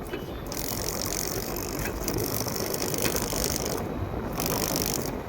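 Air conditioner running with a rapid, ratchet-like rattling buzz from a loose piece of onion skin caught in it and fluttering. The buzz drops out briefly about four seconds in and then comes back. The noise comes only from the onion skin, not from a fault in the unit.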